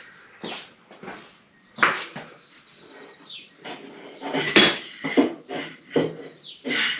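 Irregular light metallic clinks and knocks of parts or tools being handled at a lawn tractor's mower deck, the sharpest about four and a half seconds in.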